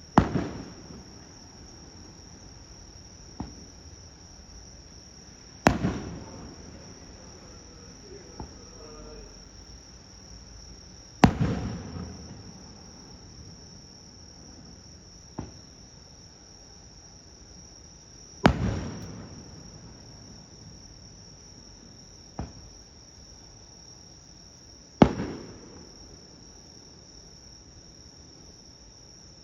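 Aerial firework shells bursting one at a time, five loud booms about five to seven seconds apart, each rolling off in a rumbling echo. A fainter sharp pop comes two to three seconds before each of the later bursts, the shell being launched. Steady high insect chirring runs underneath.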